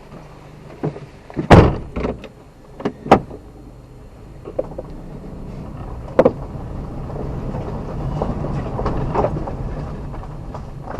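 A few sharp knocks and clunks, the loudest about a second and a half in, then a steady vehicle rumble that grows louder through the middle and eases near the end.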